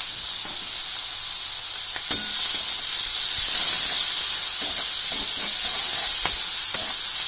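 Vegetables sizzling in hot oil in a metal wok, with a metal spatula scraping and clicking against the pan as they are stirred from about two seconds in.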